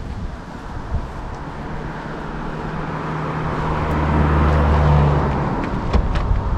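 A motor vehicle going by: engine hum and road noise build over a few seconds to a peak and drop away about five seconds in. A few sharp clicks follow near the end.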